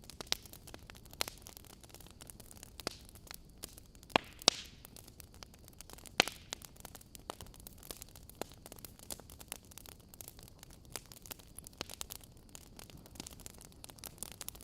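Wood fire in a fireplace crackling and popping, with irregular sharp snaps, the loudest a few seconds in, over a steady low hiss.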